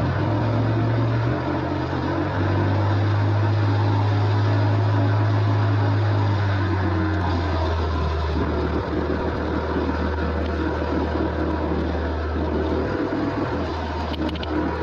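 Harley-Davidson Low Rider ST's Milwaukee-Eight V-twin running steadily under way, with wind noise; the low engine drone shifts in pitch a few times.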